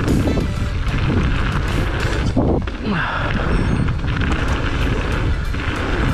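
Mountain bike rattling and knocking over rough trail, with wind buffeting the microphone as it rides.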